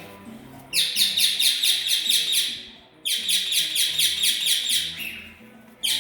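Pet birds calling in two bursts of rapid, harsh chattering notes, about six or seven a second, each burst about two seconds long, with a third starting near the end.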